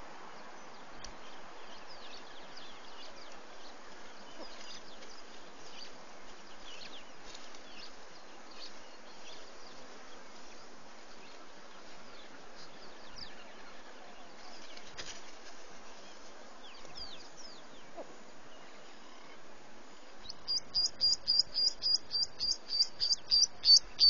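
Faint chirps of many small wild birds over a steady hiss, then a bird's rapid series of sharp, high-pitched calls, about four or five a second, that start about twenty seconds in and grow steadily louder.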